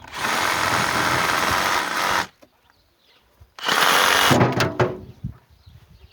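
Power saw cutting wood in two bursts, a longer one of about two seconds and a shorter one of about a second that trails off as the saw winds down.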